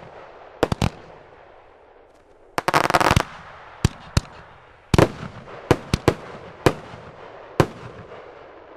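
A 50-shot fireworks cake firing: loud reports cracking out in quick succession, including a rapid string of cracks about three seconds in, then single bangs roughly a second apart, each trailing off in echo.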